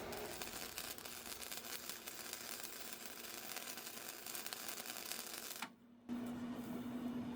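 Wire-feed welder arc crackling and sizzling steadily during a weld, cutting off suddenly near the end. A steady low hum follows once the arc stops.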